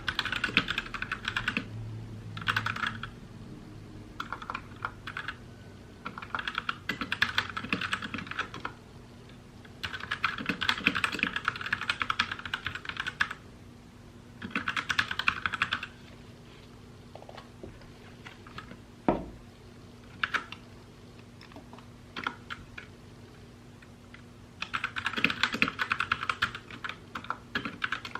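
Mechanical keyboard typing in bursts of rapid keystrokes lasting a few seconds each, separated by short pauses. Through the middle there are only scattered single keystrokes and one low thump, then a final burst of fast typing near the end.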